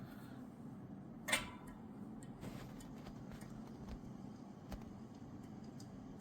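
Faint, scattered light clicks and taps from hands and tools working a bicycle wheel in a truing stand, with one louder metallic clink about a second in, over a low steady hum.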